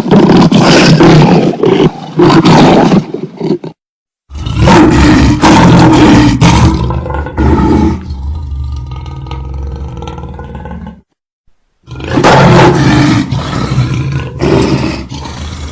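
Lion roaring in loud, rough bouts, cut into three stretches by two brief spells of dead silence about four and eleven seconds in; the calls are quieter for a few seconds before the second silence.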